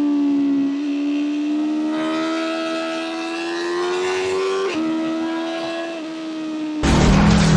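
BMW M1000R's inline-four engine running at high revs with a steady, whining pitch that climbs slowly and then drops abruptly about two-thirds of the way through, as at an upshift. Near the end a sudden loud rush of noise cuts in.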